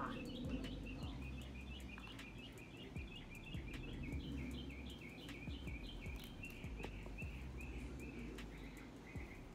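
A bird chirping in a long, quick run of evenly repeated calls, several a second, over a low background rumble.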